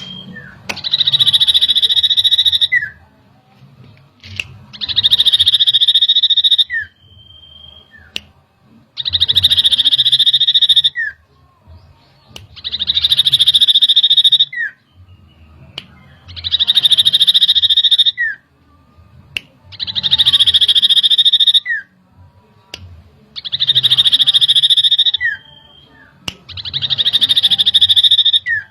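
Common iora (cipoh) singing: a fast, buzzy, high trill about two seconds long that ends in a short falling note, repeated about every four seconds, seven times.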